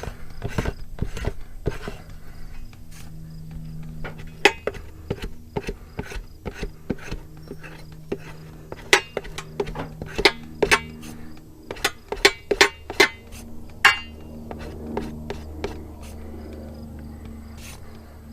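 Rubber inner tube being scraped by hand around the puncture to prepare it for a patch: quick scraping strokes at first, then scattered sharp scrapes and clicks, with a low buzz coming and going underneath.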